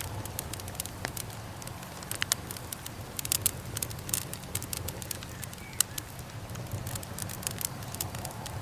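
Wood fire crackling: irregular sharp pops and snaps, some in quick clusters, over a steady low rumble.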